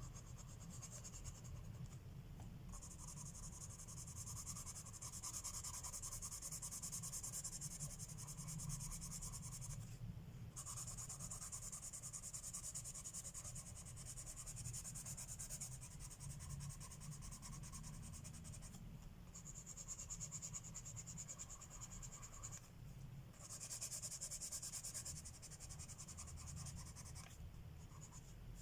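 Colored pencil scratching on paper in long stretches of coloring strokes, with a few short breaks. A low steady hum lies underneath.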